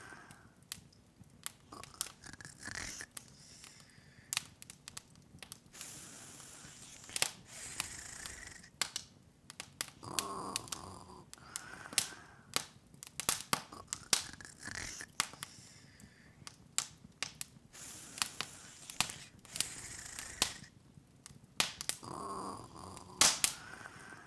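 Open wood fire crackling: irregular sharp pops and snaps, several a second at times, over a faint hiss of the flames.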